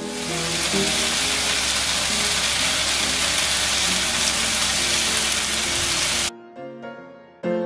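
Diced vegetables sizzling as they sauté in a frying pan: a steady hiss that cuts off suddenly about six seconds in.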